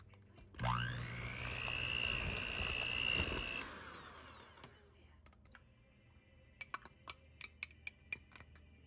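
A small electric kitchen appliance motor, such as a blender or mixer, spins up to a steady high whine, runs about three seconds, then winds down as it is released. A run of quick, sharp clicks and taps follows near the end.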